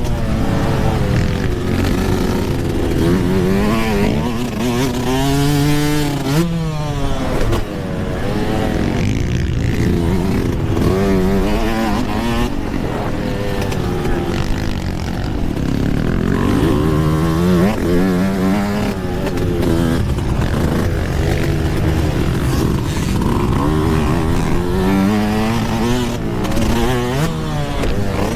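Yamaha YZ125 125cc two-stroke single-cylinder dirt bike engine under riding load, its revs climbing and falling again and again as the throttle is worked, with a sudden chop in revs about six seconds in.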